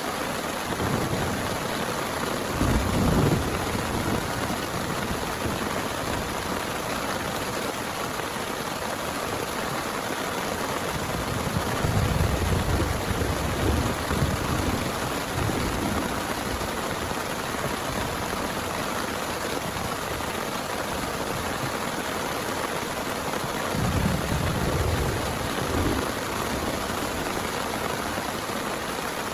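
Heavy rain falling steadily, with three low rumbles swelling for a few seconds each: near the start, in the middle and about four fifths of the way through.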